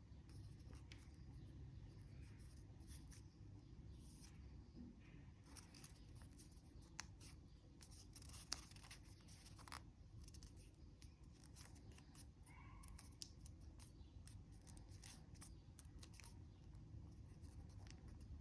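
Faint handling of a sheet of origami paper being folded and creased: scattered soft crackles and ticks, with a couple of sharper clicks midway, over a low steady hum.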